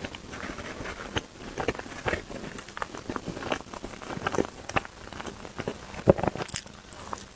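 Close-miked eating sounds: chewing, heard as a string of irregular short clicks and smacks.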